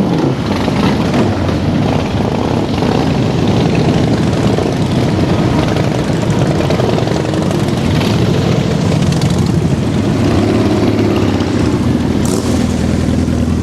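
Motorcycle engines running with a steady low drone.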